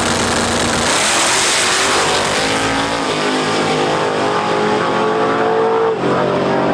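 S10 drag truck's race engine launching down the drag strip: a loud burst about a second in, then the engine note climbs steadily under full throttle, dropping once near the end.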